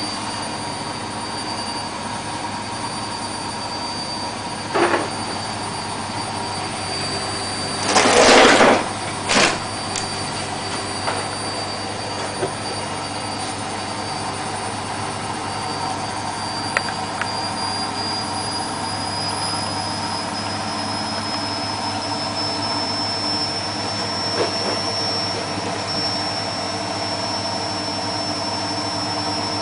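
Beko WMA642 washing machine spinning its drum, the motor giving a steady high whine over a low hum; the whine slowly rises in pitch over the second half as the spin speeds up. A few short loud knocks come about a quarter to a third of the way in.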